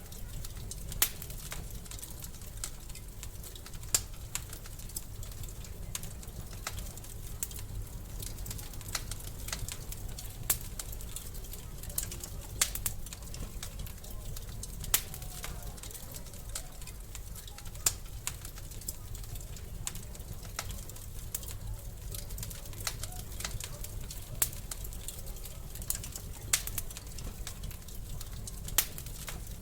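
Wood fire crackling in a fireplace: a steady low rumble with sharp pops and snaps every second or two.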